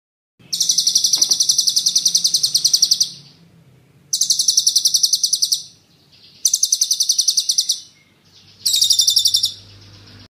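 Songbird giving a sharp, rolling trill of rapidly repeated high notes, about a dozen a second, in four bursts: the first lasts about two and a half seconds and the later ones are shorter. This is the 'tembakan ngeroll' call played as masteran for training competition songbirds.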